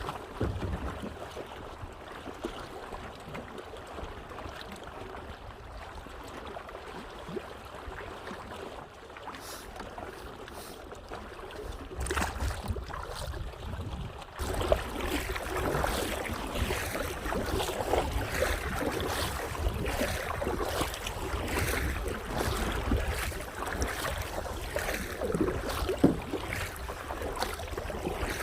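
Water splashing and lapping around a kayak being paddled, with wind rumbling on the microphone. It grows louder and busier about halfway through.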